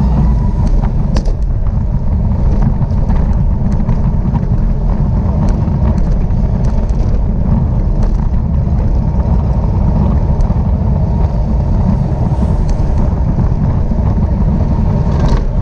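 Loud, steady wind buffeting on the microphone, a low rumble with no break, with a few light clicks scattered through it.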